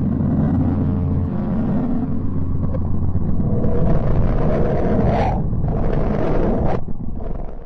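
A "planet sound" space-audio track: a loud, dense rumbling roar with faint held low tones underneath. It grows brighter about halfway through and cuts off abruptly near the end.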